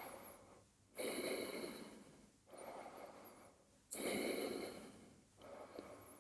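A person's slow, deep breathing close to the microphone, a full breath about every three seconds: two louder breaths that start sharply and fade, with softer breaths between them.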